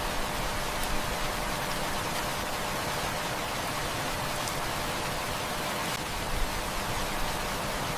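Steady heavy rain: an even hiss of falling water with a few faint sharp ticks.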